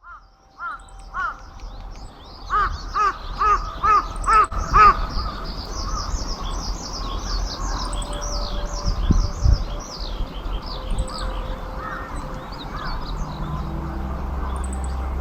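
A crow cawing about nine times in quick succession over the first five seconds, with a songbird singing a long run of high, rapid, varied phrases through the middle of the clip.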